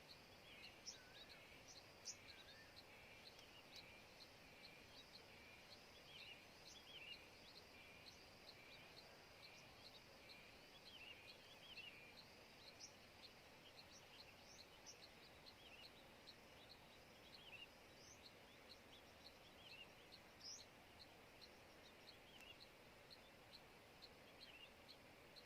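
Faint bird calls in woodland: a steady run of short, high chirps several times a second, with scattered curving two- and three-note calls over a quiet background hiss.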